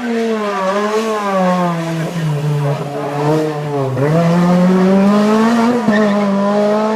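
Racing car engine under way, its revs falling steadily for about four seconds and then climbing again as it accelerates.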